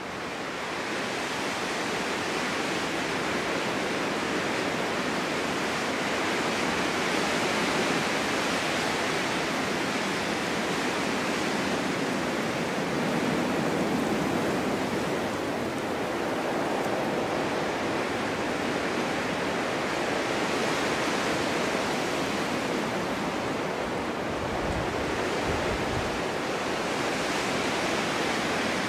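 Snowstorm wind blowing hard, a dense rushing noise that swells and eases in slow gusts, with a few low buffeting rumbles near the end.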